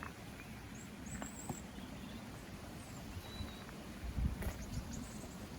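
Small garden waterfall splashing in a steady rush, with a few faint bird chirps about a second in. A few low thuds near the end.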